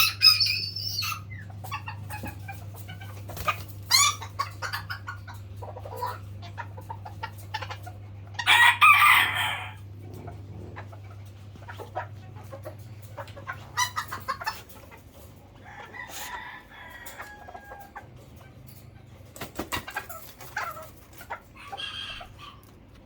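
Chickens calling and clucking in scattered bursts, the loudest a call about a second long around nine seconds in. A low steady hum underneath fades out about halfway.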